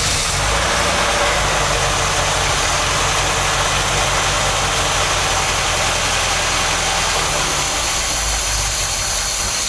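Freshly rebuilt MGB engine running steadily on full choke, just after catching on its first start and before oil pressure has come up.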